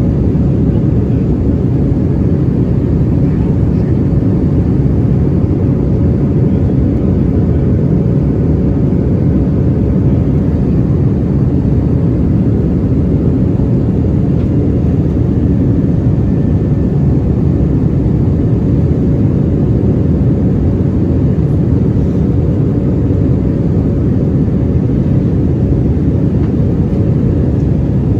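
Steady cabin noise inside a flying Airbus A319: an even, loud low rush of airflow and engines, with a steady mid-pitched tone running in it.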